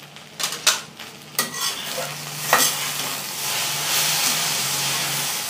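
Okra stir-frying in a stainless-steel kadai, stirred with a metal spatula: a few sharp clicks of the spatula against the pan, then a steady sizzle from about two seconds in.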